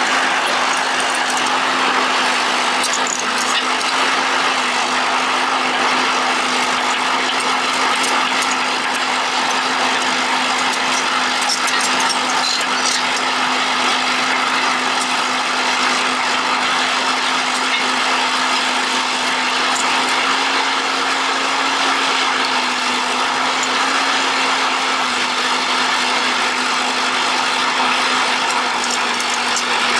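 Excavator running steadily, a constant hum with a dense hiss over it and scattered light clicks.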